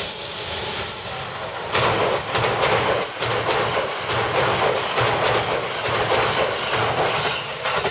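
JR West 289-series limited express electric train passing close by. From about two seconds in, its wheels clatter over the rail joints in a fast, rapid rhythm.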